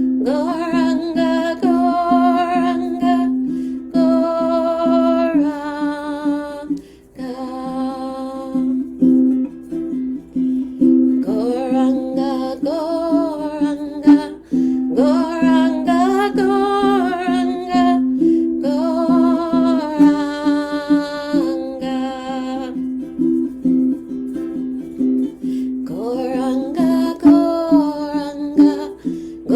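Kirtan mantra chanting: a woman sings long melodic phrases with short pauses between them, over a steady drone and a strummed string instrument.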